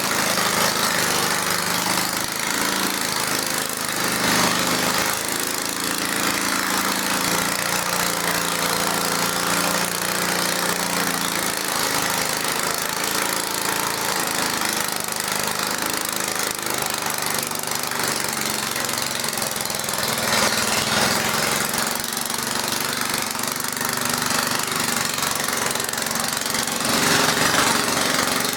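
Garden tractor engine running steadily, its pitch wavering in the first part.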